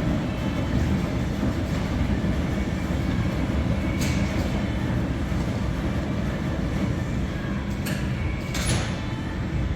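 Electrolux WH620CV professional washer-extractor agitating its load during the wash: a steady drum rumble, with a few short sharp sounds about four seconds in and near the end.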